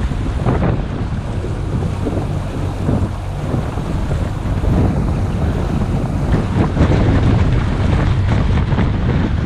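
Boat running at speed across open water, with heavy wind buffeting the microphone over the rush of the motor and water.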